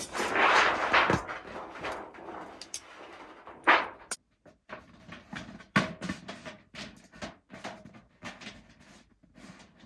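A burst of rustling, then irregular clicks and knocks of things being handled, with one louder knock about three and a half seconds in.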